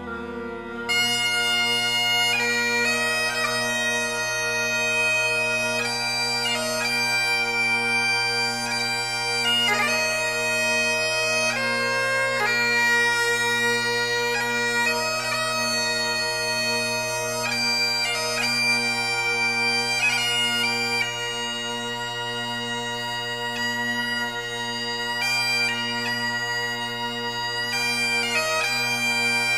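Bagpipes playing a slow melody over a steady drone, starting about a second in.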